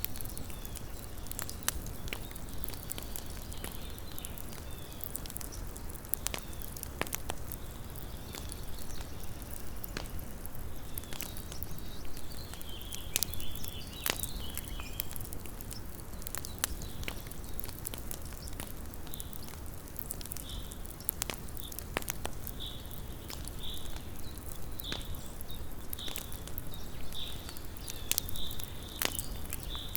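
Small campfire crackling, with frequent sharp pops and snaps over a low steady rumble. In the second half a short high chirp repeats about once a second.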